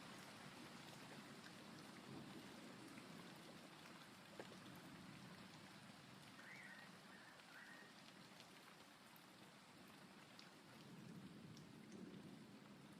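Faint, steady rain with a few scattered drop ticks. A couple of short, high chirps come through the rain past the middle.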